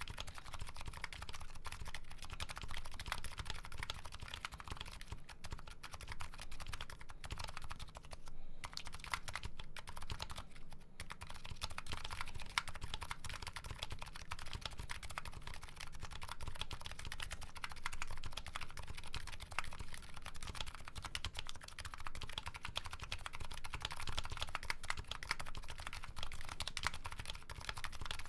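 Continuous typing on a Nuxros Kraze custom keyboard fitted with MetaKeebs MetaPulse electrocapacitive switches and JCS Arabic keycaps: a dense stream of key clacks, with brief pauses about eight and eleven seconds in.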